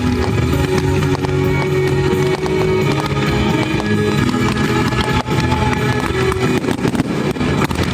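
Loud music with fireworks going off over it: repeated sharp bangs and crackles, thickest in the second half.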